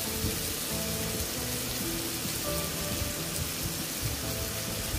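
Diced potatoes sizzling steadily in hot oil in a kadai, with soft background music.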